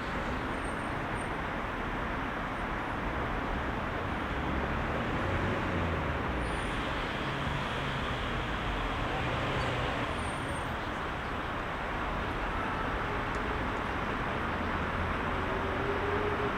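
Heavy rush-hour city traffic: a steady rumble of engines and tyres from many passing vehicles, swelling a little now and then.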